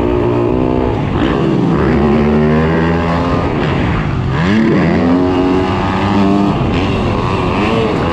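Motocross dirt bike engine revving hard, its pitch climbing and then dropping off several times as the throttle is worked.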